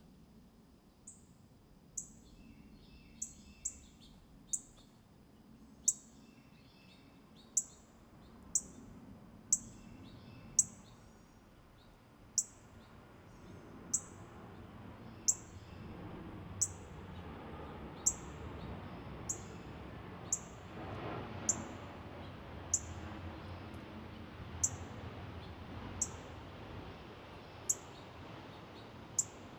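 A small songbird giving a sharp, high chip note that drops in pitch, repeated over and over about once every second or so. During the first ten seconds softer, lower twittering notes come in between the chips.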